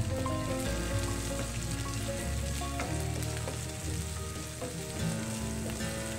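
Sliced onions and green chillies sizzling in a nonstick frying pan as they are stirred, with small scrapes and clicks from the stirring.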